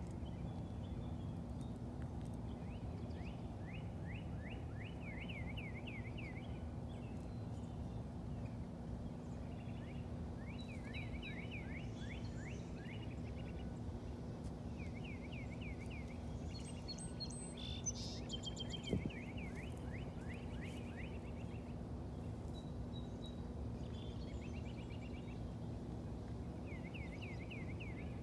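A small bird singing a repeated series of quick, high sweeping notes, each series a second or two long and coming every few seconds, over a steady low hum. Two short knocks a little past the middle.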